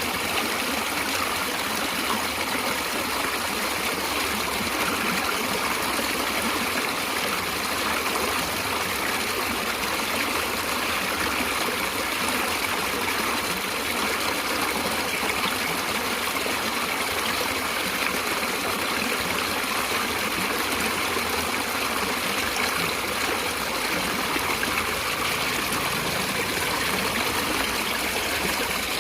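Natural flowing water, a steady rushing stream sound that stays even throughout.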